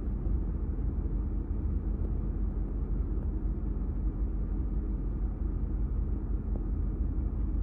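Steady low rumble and hum inside the cab of a Ram 1500 TRX pickup, running evenly with no sudden changes.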